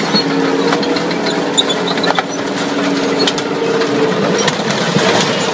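A tank's engine drones steadily as its tracks climb onto a minivan, with many sharp cracks and crunches as the car's body gives way under it.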